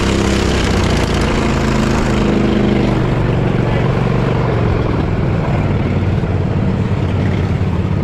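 Off-road mud mower's engine running steadily under load, its pitch rising slightly over the first few seconds.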